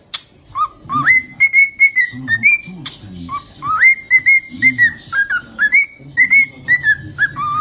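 Cockatiel whistling a tune: a quick run of short, clear whistle notes, many sliding up in pitch, hopping between a lower and a higher note.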